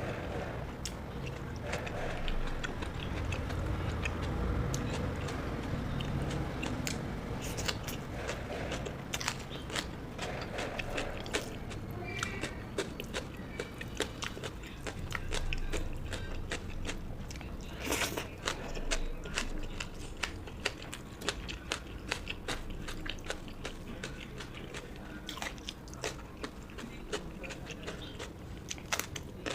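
Close-miked chewing of rice and fish curry, with many short wet mouth clicks and crunches that come thicker in the second half.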